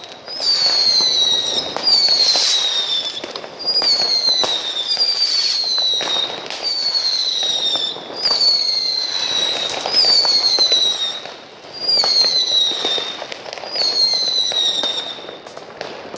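New Year's Eve fireworks: a string of whistling shots, about ten high whistles that each fall slightly in pitch, roughly one every second and a half. Scattered cracks and bangs sound under them.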